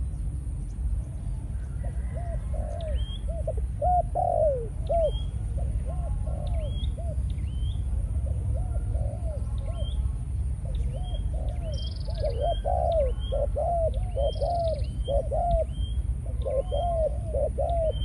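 Spotted dove of the Malaysian cooing strain cooing in repeated phrases. A higher, thinner bird chirps alongside, over a steady low rumble.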